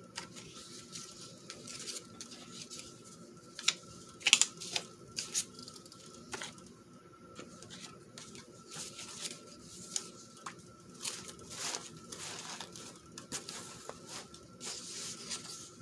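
Paper scraps being handled: light rustling and crinkling with scattered sharp taps and clicks, a few louder ones about four seconds in.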